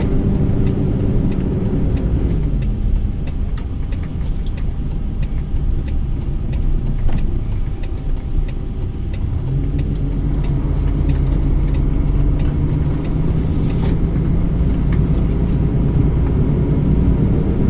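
A heavy truck's engine running on the move. Its note falls away about two seconds in as the truck eases off, then picks up again near the middle and holds steady.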